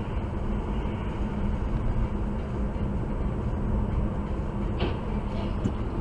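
Steady rumble of a moving vehicle, with a low hum running throughout.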